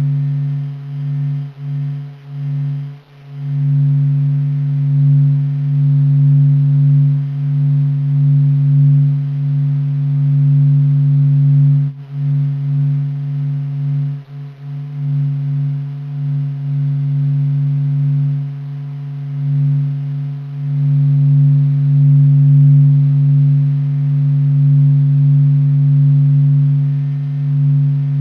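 NASA's sonified sound of the sun: a low, steady hum of two tones with fainter higher overtones, swelling and fading slowly in loudness and briefly dipping about three seconds in.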